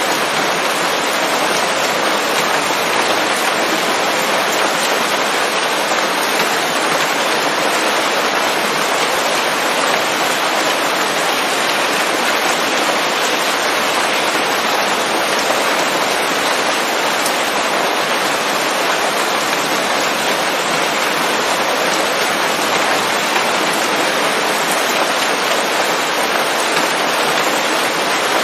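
Steady, dense rain falling on forest leaves, an even hiss of many drops with no change and no thunder.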